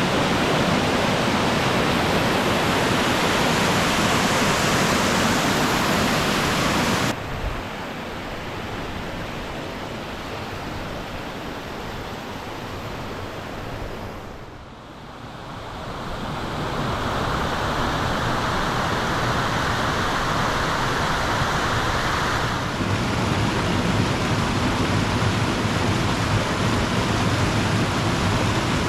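Aber Falls waterfall, a steady rushing of falling water with no pitch to it. It drops abruptly to a lower level about seven seconds in, fades briefly near the middle, then grows louder again.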